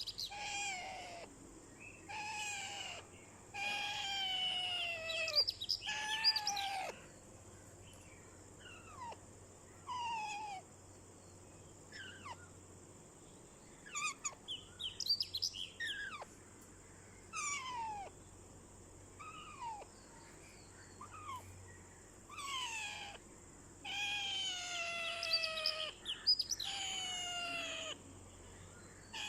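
Ringneck parrot calling over and over: a series of short pitched calls, most sliding down in pitch, some coming in quick clusters.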